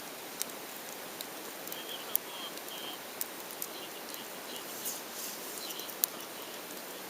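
Wood campfire crackling: sharp, irregular pops every second or so, the loudest about two seconds in and again about six seconds in, over a steady hiss.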